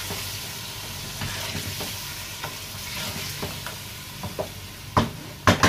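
Chicken with freshly added yogurt sizzling in a pot over a gas flame while being stirred with a wooden spatula, the spatula scraping through the pieces. A couple of sharp knocks near the end.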